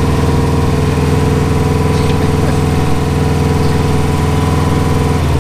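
Car engine running steadily, held slightly above idle with the clutch pressed in, just before the driver pulls away in a manual car.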